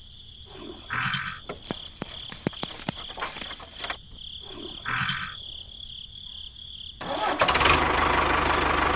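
Small engine of a DIY mini tractor: short bursts and a run of sharp clicks, then it catches about seven seconds in and runs steadily with a fast even pulse.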